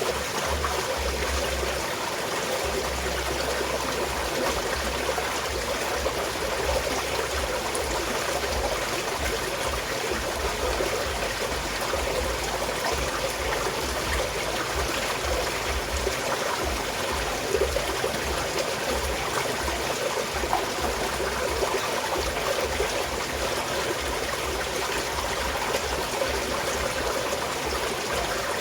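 Small mountain stream flowing steadily, a continuous rush and trickle of water.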